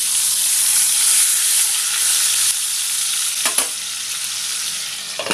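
Half a chicken coated in spice paste sizzling loudly in hot oil in a frying pan as it is turned over. There are a couple of short clicks in the second half, and the sizzle eases a little near the end.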